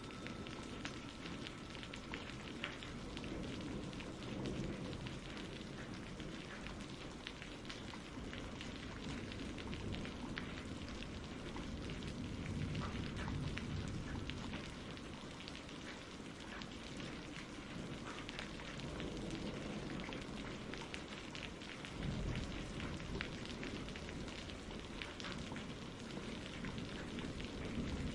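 Steady rain with many small drop patters and a low, swelling rumble of distant thunder. A ringing chime tone fades out in the first two seconds.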